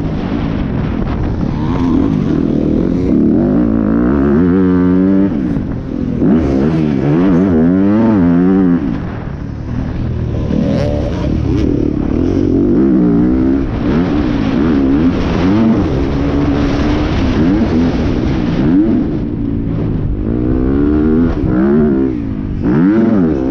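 Yamaha enduro motorcycle's engine heard from the rider's helmet camera, the revs climbing and dropping again and again as the throttle is opened hard and shut off.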